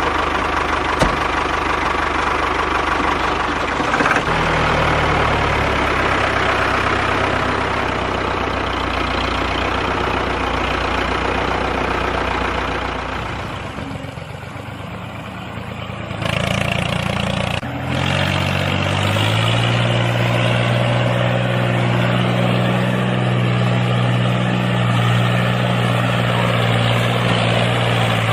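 A small engine running steadily. About thirteen seconds in it fades for a couple of seconds, then comes back, and after a sudden break near eighteen seconds a steadier, higher engine note holds.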